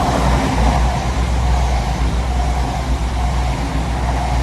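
An empty passenger train running past without stopping, giving a steady, loud low rumble of engine and wheels on rail.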